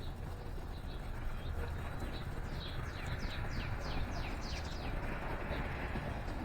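A songbird singing a quick run of about ten sharply falling whistled notes, roughly four a second, with a few single high chirps before and after, over a steady low rumble.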